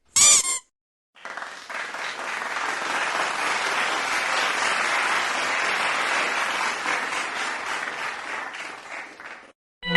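Crowd applause: many hands clapping, swelling in over the first couple of seconds and dying away near the end. It is preceded at the very start by a brief, half-second wavering tone.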